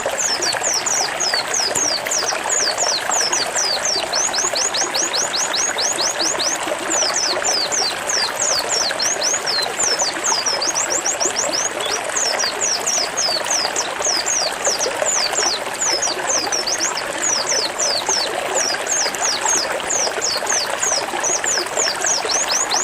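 White-eye (pleci) singing a fast 'zipper' song: an unbroken rapid-fire run of sharp, high downslurred notes, several a second. Under it runs a steady trickling water sound.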